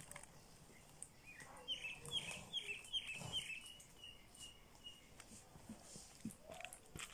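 A bird chirping: a quick run of short, falling, high chirps over about three seconds, starting a little over a second in. Faint taps and rustles of hands working on a table.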